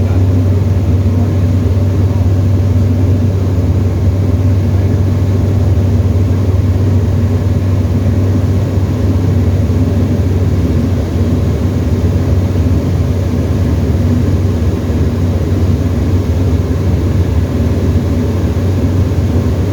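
Steady drone of a Tecnam ultralight's piston engine and propeller in flight, heard inside the cockpit, with a strong low hum that holds constant throughout.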